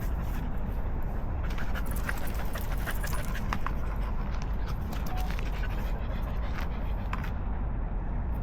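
A dog panting on a walk, with a few light clicks about two to four seconds in, over a steady low rumble.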